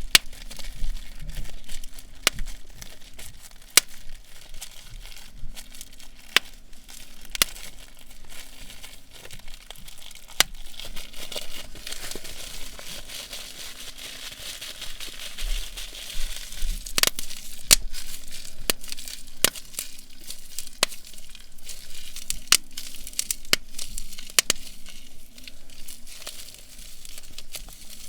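Bubble wrap being crinkled and popped by hand: sharp pops at irregular intervals over steady crinkling of the plastic.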